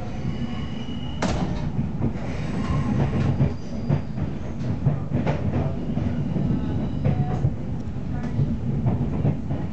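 Intercity train running, heard from inside the passenger carriage: a steady low rumble with irregular sharp knocks as the wheels pass over rail joints and switches, and a few brief thin wheel squeals.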